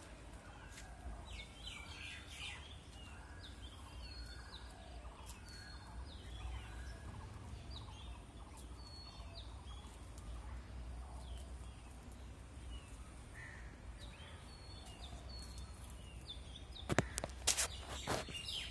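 Birds chirping with short, quick calls over a steady low rumble of wind on the microphone, with a few sharp clicks near the end.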